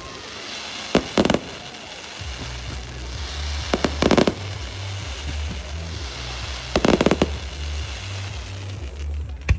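Fireworks going off: sharp bangs in clusters about one, four and seven seconds in and once more near the end, over a continuous crackle. Background music with a heavy bass comes in about two seconds in.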